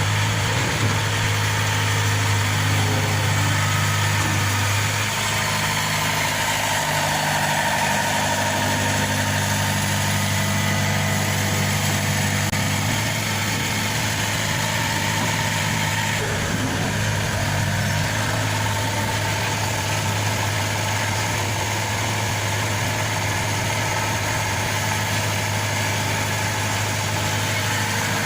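Maxxi NDR 85 Turbo combine harvester's diesel engine idling steadily, with small shifts in its tone.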